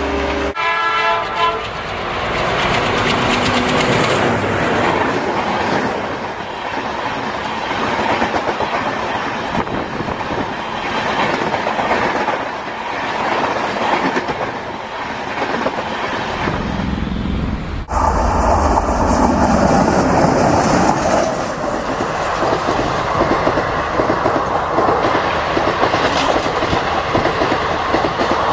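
A railway train running: a horn sounds and ends about half a second in, then a steady rumble and clatter of rolling wheels follows. About 18 seconds in it changes suddenly to a louder stretch of the same running-train noise.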